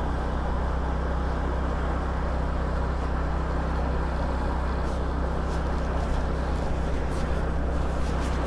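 Small motor scooter running steadily at low cruising speed: an even low engine drone with wind and road noise over it.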